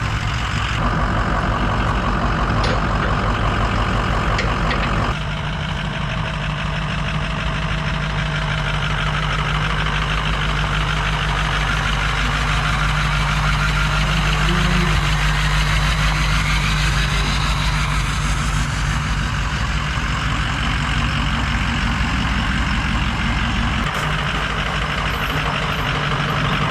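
Diesel pickup truck engine idling steadily, its note changing once about five seconds in and then holding even.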